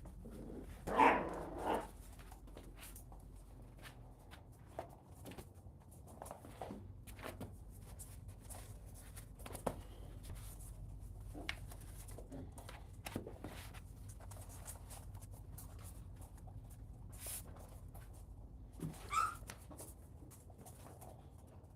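Puppies vocalising, with the loudest bursts about a second in and a short high cry near the end, and faint scattered clicks and scuffles between.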